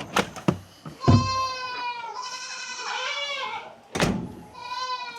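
Goats bleating: three long calls, one after another, the first the loudest. A few sharp knocks come just before the first call and another about four seconds in.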